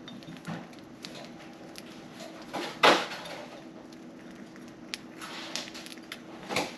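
Budgerigars pecking at and cracking millet seed: scattered small clicks and taps over a faint steady hum, with one louder knock about three seconds in.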